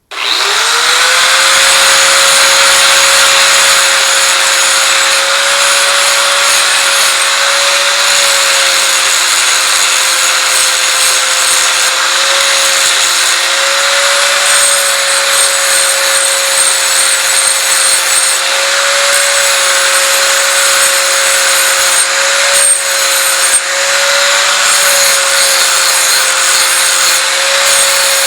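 Angle grinder spinning up and then grinding steel steadily, cleaning the edges of a cut piece ready for welding. A steady high whine with a loud grinding hiss over it, the pitch dipping and wavering slightly as the disc is pressed into the metal.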